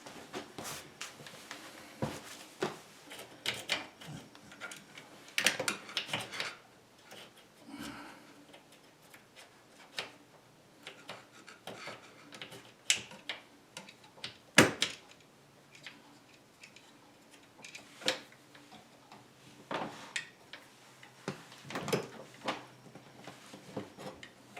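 Scattered clicks, knocks and rattles of parts and tools being handled while working on an LG dishwasher's door spring assembly, with one sharper knock about fifteen seconds in.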